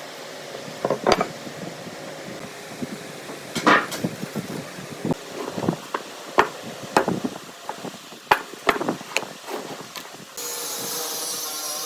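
Irregular knocks and taps on wood, some sharp and loud, as pieces are struck or handled in hand work. A steady whirring noise from a machine starts near the end.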